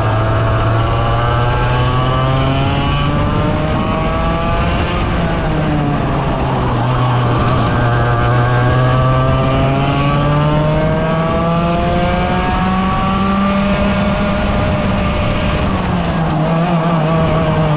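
100cc two-stroke kart engine running at full throttle, its pitch climbing through the revs about three times with short drops between as it comes off the throttle and accelerates again.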